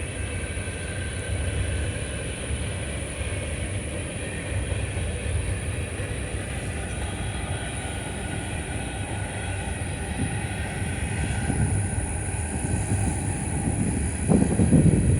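Empty grain train rolling past: a steady rumble of steel wheels on rail with a faint high wheel squeal. Near the end, louder low buffeting on the microphone.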